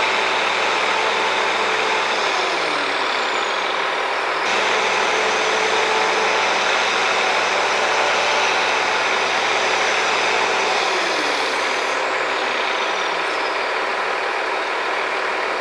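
Heavy engine of construction machinery running steadily under a dense wash of noise. Its pitch falls away twice. The sound changes abruptly about four and a half seconds in.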